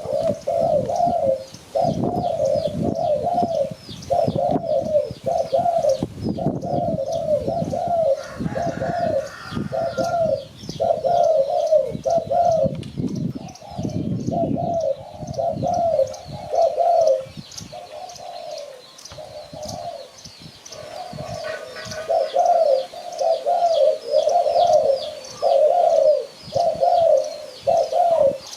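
Spotted dove cooing over and over in quick, even phrases, with a brief pause past the middle. Faint high chirps of smaller birds run underneath.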